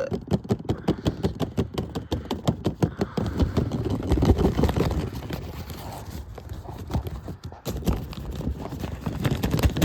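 Taylormade washing machine spinning an off-balance load of towels and jumping, a rapid uneven run of knocks and bangs over a rumble.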